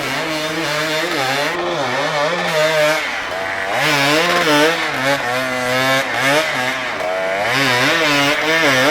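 Enduro motorcycle engine revving hard off-road, its pitch swinging up and down again and again as the throttle is worked on and off.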